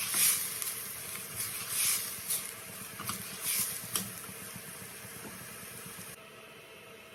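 Food sizzling in a frying pan, the hiss swelling in waves, with a few sharp scrapes or clicks of stirring. The sizzle cuts off about six seconds in, leaving a faint steady hum.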